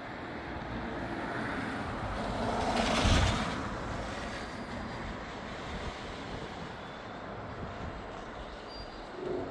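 A vehicle passing by, its noise swelling to a peak about three seconds in and then fading, over a steady background hiss.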